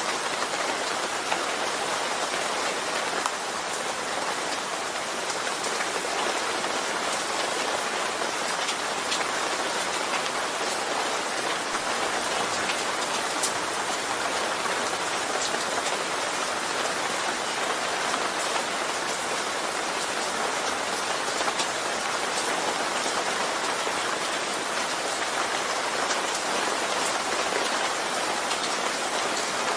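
Steady rain falling on a surface, a constant hiss with scattered individual drop taps.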